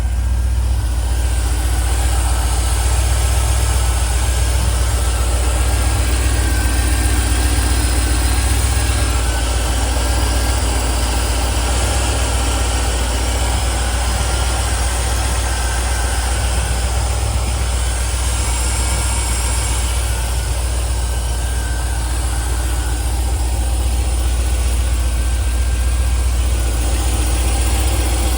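1994 MG RV8's 3.9-litre Rover aluminium V8 idling steadily, with a deep, even exhaust note.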